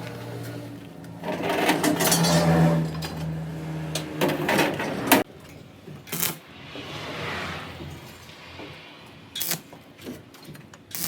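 Clanking and knocking of metal parts and tools, with a few sharp knocks and a low machine hum behind.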